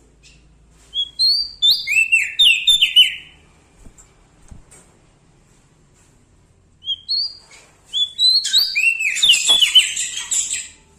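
Prenjak daun Lombok, a small Indonesian songbird, singing in two loud bursts of quick whistled notes that slide downward, the first about a second in and the second, longer one in the back half.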